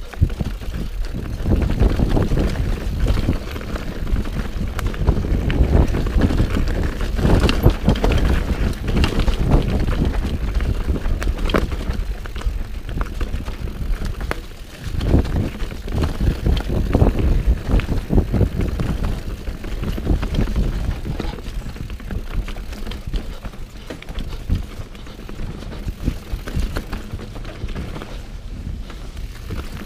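Mountain bike being ridden along a dirt trail: tyres on the ground and the bike rattling with frequent clicks over bumps, under a steady rumble of wind on the microphone.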